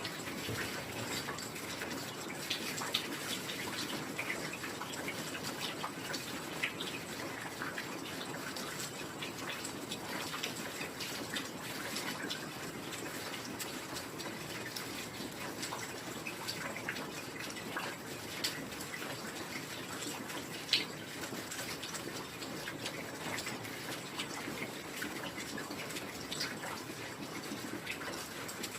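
Steady heavy rain falling, a dense even hiss scattered with countless small drop impacts and drips, with an occasional louder single drop.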